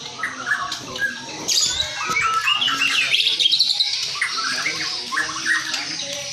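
White-rumped shama (murai batu, Barito type) singing: a dense stream of quick whistled and chattering phrases, busier from about a second and a half in, overlapping with other bird calls.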